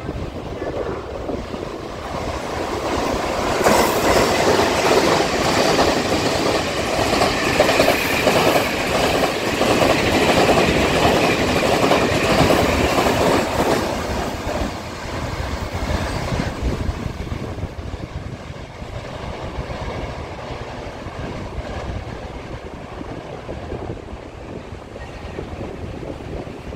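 Taiwan Railway Tze-Chiang express train hauled by electric locomotive E511 passing through the station without stopping. The wheel and rail noise builds about three seconds in, stays loud until around fourteen seconds, then fades as the train draws away.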